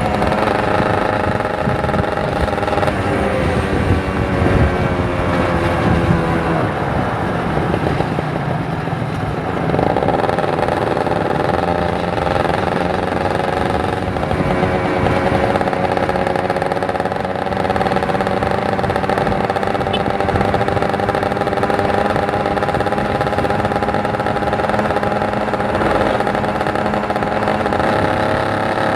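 Kawasaki Ninja 150 RR's two-stroke single-cylinder engine running while ridden. Its pitch falls for several seconds, breaks briefly about a third of the way in, then picks up again and holds fairly steady.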